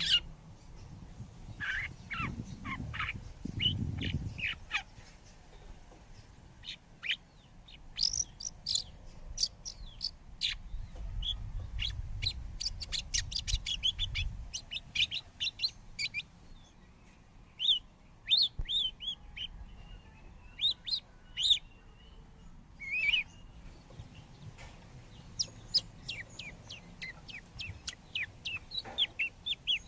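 Birds chirping: many short, high chirps in quick runs, with a low rumble twice, about two to four seconds in and again from about eleven to fourteen seconds.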